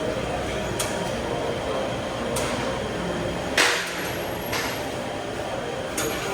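Five sharp knocks of tools at work, the loudest about halfway through, over a steady mechanical hum.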